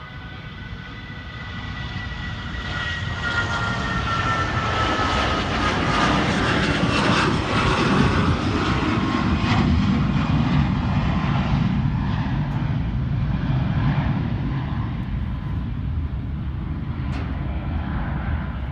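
Bombardier CRJ-700 regional jet's twin turbofan engines at takeoff power: a high whine that falls in pitch as the jet passes, under a loud roar that peaks about eight seconds in and then slowly eases off.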